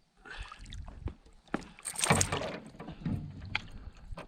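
Knocks and clatter in a canoe, with a louder noisy burst about two seconds in, as a hooked smallmouth bass is brought to the boat and landed.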